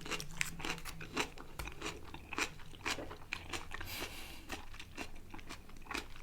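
Close-miked chewing of food, with many small wet clicks and crunches. There is a brief hiss about four seconds in.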